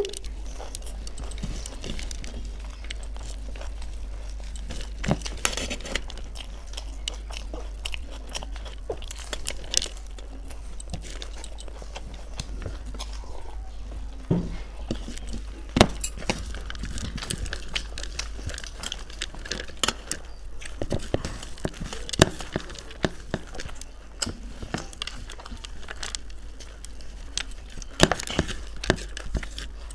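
Chewing and crunching of masala muri, a spiced puffed-rice mix, eaten by hand, with frequent sharp crunches scattered through it.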